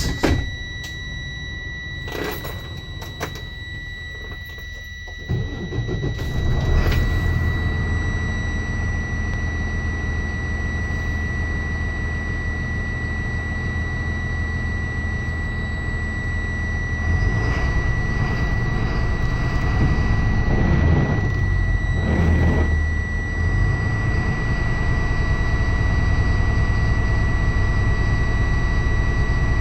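2009 Thomas Saf-T-Liner C2 school bus's Mercedes-Benz OM926LA inline-six turbodiesel cold-started after five days standing: it fires about five seconds in and runs on at idle. A steady high warning tone sounds over it.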